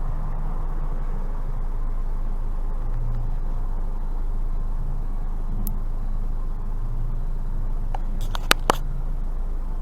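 Car cabin noise while driving: a steady low engine and road rumble, with a quick cluster of sharp clicks about eight seconds in.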